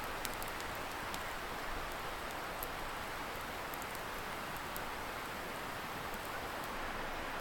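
Wood fire crackling with a few sharp little pops, over the steady hiss of a distant river.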